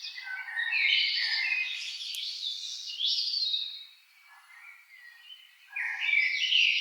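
Songbirds chirping and twittering in a dense run of quick, high, gliding calls, easing off about four seconds in, then picking up again in another burst near the end.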